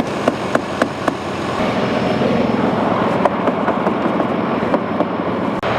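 Steady vehicle noise of a truck and its surroundings, with a quick run of sharp knocks, about three or four a second, in the first second and a few more later, as ice is knocked off the truck.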